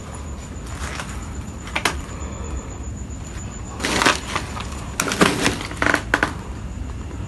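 Crunching footsteps on broken debris, in short uneven clusters: one about two seconds in, then several more between about four and six seconds in, over a steady low rumble.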